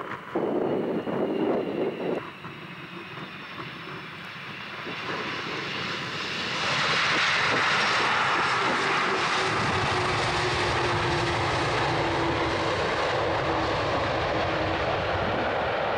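A KLM Airbus A330-200 jet airliner flying in to land, its engine noise growing and turning loud and steady about six or seven seconds in, with a high whine falling slowly at first and a deep rumble joining near ten seconds in.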